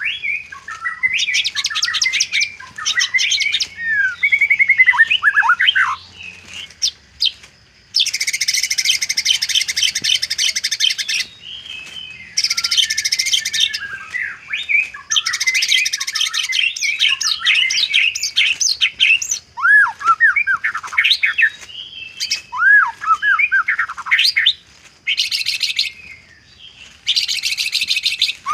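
White-rumped shama (murai batu) singing a varied song. Clear whistled phrases slide down in pitch and alternate with long, fast, buzzy rattling trills of one to three seconds each, the mimicked filler ('isian') phrases of a trained shama.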